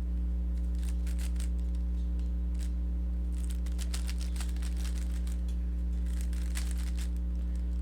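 Rubik's cube being turned: irregular runs of quick, faint plastic clicks as the layers are twisted, over a steady low electrical hum.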